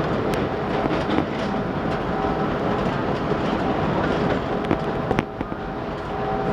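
CTA Brown Line 'L' train running on the elevated track, heard from inside the car: a steady rumble with sharp clicks of the wheels over rail joints.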